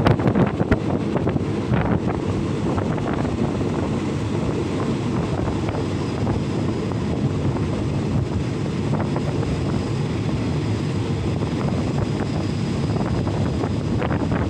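Steady running noise of a passenger train carriage on the rails, with wind buffeting the microphone at the open window. There are a few sharp clacks in the first couple of seconds and again near the end.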